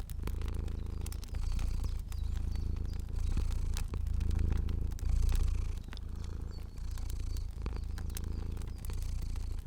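Domestic cat purring steadily, a low rumble that swells and eases about once a second with each breath, with scattered small pops and crackles from a fire.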